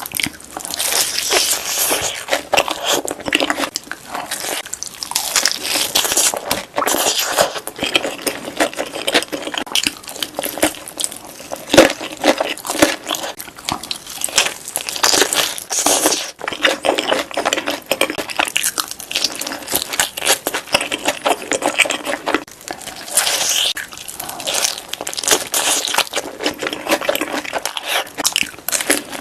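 Close-miked crunching and chewing of crispy fried chicken, with a steady stream of crackly bites and chews.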